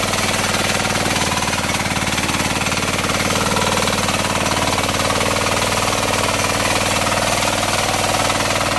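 Kisan Kraft KK-IC-406D power weeder's 9 HP diesel engine running steadily at high revs, with a rapid, even knock.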